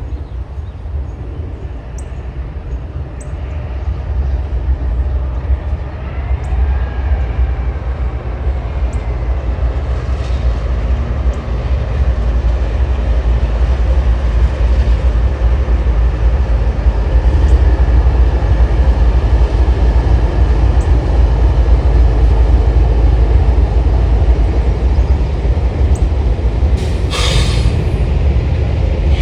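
Diesel-hauled train running past, its low rumble building over the first few seconds and then holding loud and steady. There is a short burst of hiss near the end.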